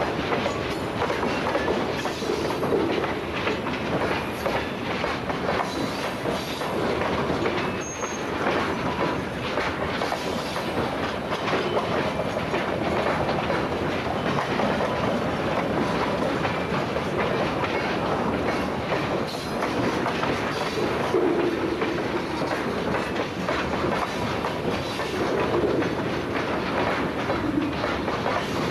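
Freight train cars rolling past at steady speed, their steel wheels clicking rhythmically over the rail joints.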